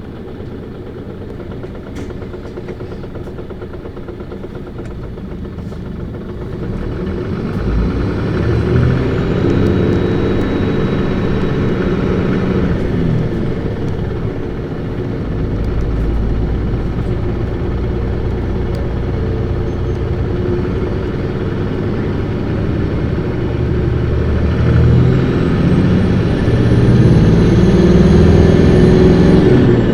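Isuzu Erga city bus (PKG-LV234Q2) with its six-cylinder diesel engine driven hard, heard from inside the bus. The engine note climbs and drops back several times as the bus accelerates.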